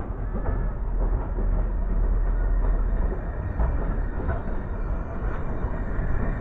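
Narrow-gauge tank locomotive and its carriages rolling slowly past: a steady rumble with occasional clicks of the wheels over rail joints.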